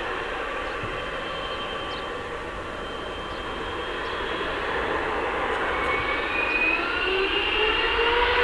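Jet airliner engines: a broad rushing noise that grows steadily louder, with whining tones that rise in pitch over the last few seconds.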